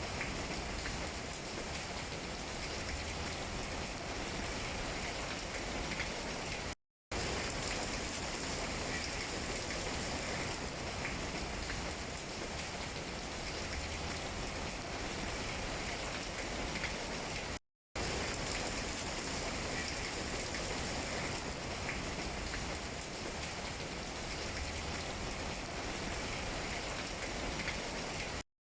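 Steady rain falling on tree leaves, an even hiss. The sound cuts out completely for a split second three times, about every eleven seconds.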